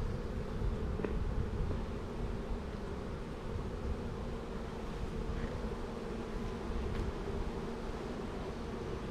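A honeybee colony buzzing in an open hive during an inspection: a steady, unbroken hum of many bees.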